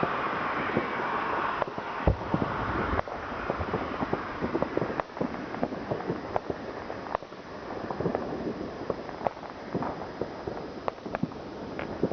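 New Year's Eve fireworks: many scattered bangs and crackles going off at irregular intervals, some near and some far. A steady hiss fills the first second and a half and then cuts off. One sharp bang about two seconds in is the loudest.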